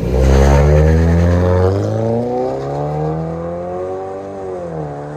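2014 Ford Fusion 2.5-litre four-cylinder, exhaust run with the muffler removed: the engine is blipped sharply and loudly, then the revs fall away slowly and settle back toward idle near the end.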